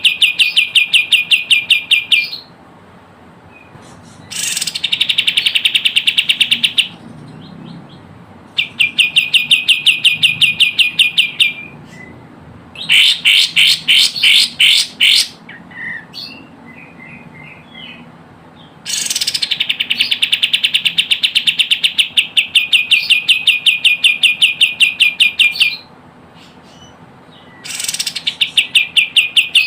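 Recorded kapas tembak bird calls played as a trapping lure: fast trills of sharp, evenly repeated notes. They come in bouts of a few seconds, one running about seven seconds, with short pauses between.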